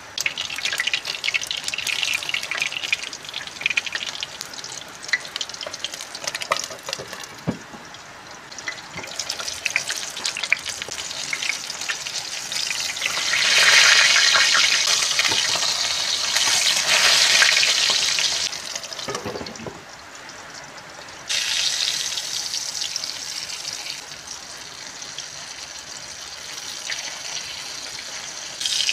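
Whole fish frying in hot oil in a pan: a steady sizzle with crackling spatters. It is loudest around the middle, and the level jumps abruptly up or down a few times.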